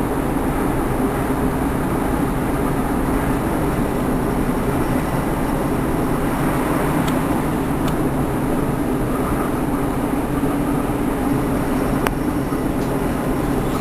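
Steady running noise heard inside a moving Class 150 diesel multiple unit: a continuous drone and rumble from the train underway, with a few faint clicks.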